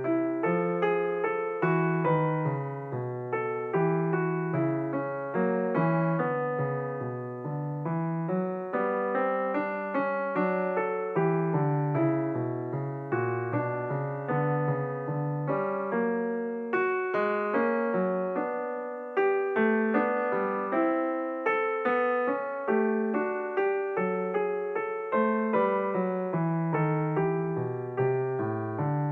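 Background piano music: a steady run of gentle notes over a moving bass line.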